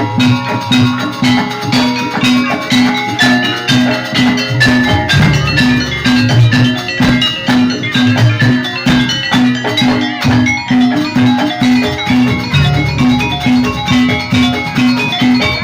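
Javanese gamelan music accompanying a jaranan dance: struck metallophones ringing quick melodic notes over a steady low pitched beat about twice a second, with hand-drum strokes.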